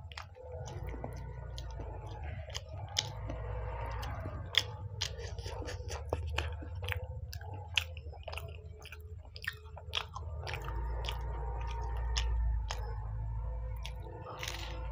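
Close-miked chewing of a fried samosa: wet mouth sounds broken by many crisp clicks and crunches from the pastry, with a fresh big bite near the end. A steady low hum runs underneath.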